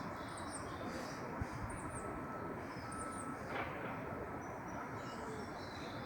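Small birds chirping outdoors: three short, high chirps about a second and a half apart, with a few fainter high notes later, over steady outdoor background noise.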